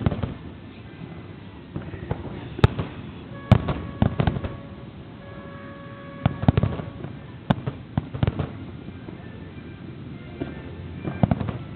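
Aerial fireworks bursting in a string of booms at irregular intervals, some in quick clusters of two or three.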